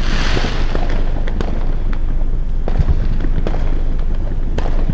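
Consumer fireworks going off all around: a crackling hiss that fades over the first second, scattered sharp pops throughout, and a deep boom a little under three seconds in.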